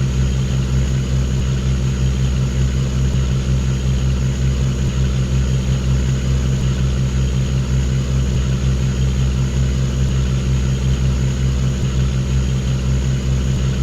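Diesel engine of a river tugboat running steadily under way, with an even low throb.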